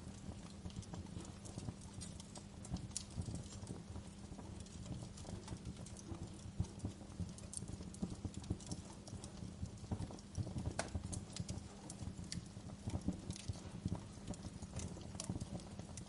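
Wood fire crackling in a fireplace: irregular pops and snaps over a steady low rumble of flame.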